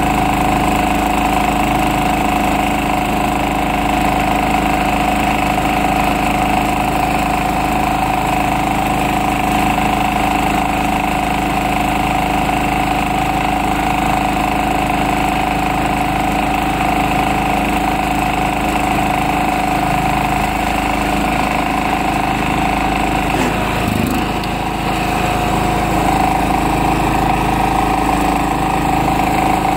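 1973 Ingersoll garden tractor engine running steadily, with a brief dip in engine speed about three-quarters of the way through before it settles back.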